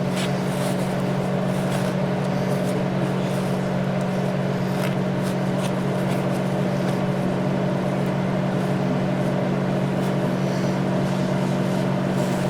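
Steady electric machine hum, even in pitch and level throughout, with a few faint light clicks of parts being handled.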